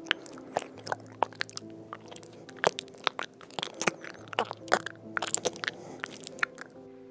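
Garden snail feeding on a leaf: irregular crisp crunching clicks, several a second, as its rasping mouth scrapes off the leaf tissue.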